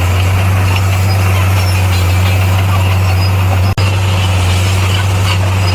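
Heavy diesel engine of earthmoving equipment running steadily with a deep, even drone. The sound drops out for an instant almost four seconds in.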